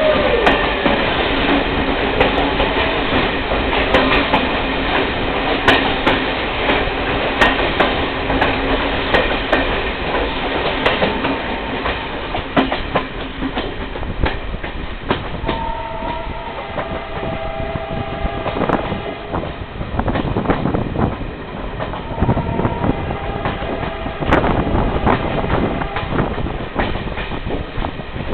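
Train running along the track, its wheels clicking irregularly over rail joints over a steady rumble, with a few short tones in the middle.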